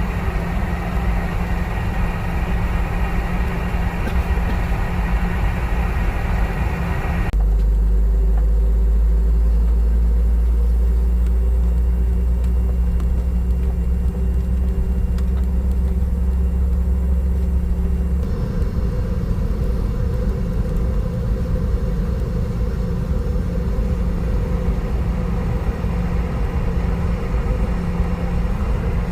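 Steady cabin noise aboard a Boeing 717-200 airliner: a low engine hum with a few constant tones. About seven seconds in, a heavy low rumble starts abruptly and the higher sounds fall away. It stops just as abruptly about ten seconds later.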